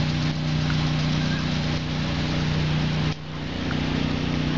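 A steady mechanical hum with a constant low drone, like an engine or motor running at idle. It dips briefly about three seconds in.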